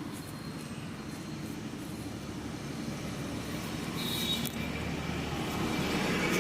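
Motor vehicle engine running steadily with road noise, getting louder in the second half.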